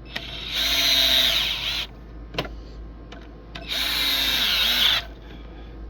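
Cordless drill driving the screws back into a sprinkler valve's bonnet, running in two short bursts of about a second each with a short click between them.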